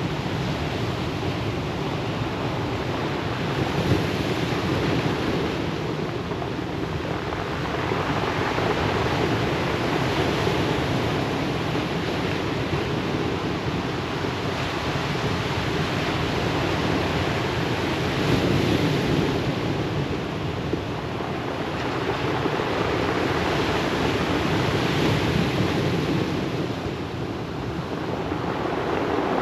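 Ocean surf breaking and washing on the shore: a continuous rush of water that swells louder every several seconds as each wave comes in.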